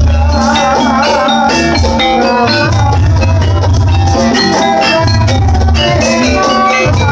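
Javanese jaranan gamelan music, played loud: pulsing drums under ringing metallophones, with a wavering melodic line on top.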